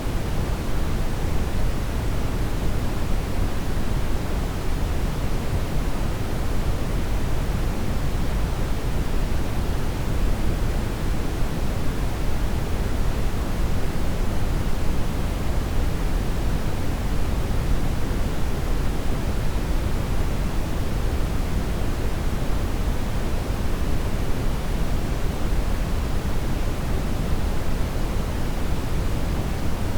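Steady brown noise: an even, unchanging deep rushing hiss, heaviest in the low end.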